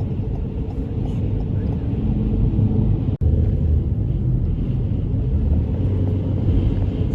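Steady low rumble of a car driving on a snowy road, heard from inside the cabin: engine, tyre and wind noise. It drops out for an instant about three seconds in.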